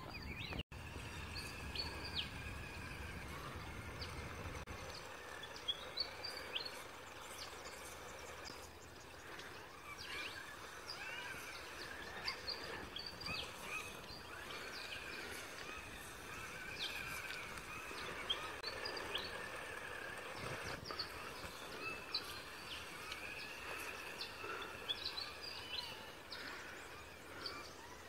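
Wild birds chirping and calling, short repeated chirps scattered all through, over a faint steady outdoor background. For the first few seconds wind rumbles on the microphone.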